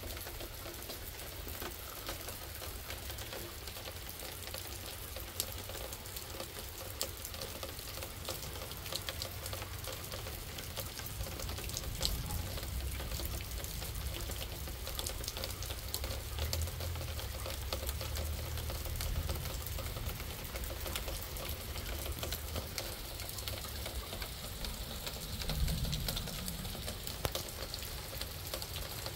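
Heavy thunderstorm rain falling, a steady hiss dotted with many small drop ticks. A low rumble swells from about halfway through, peaks near the end, then eases.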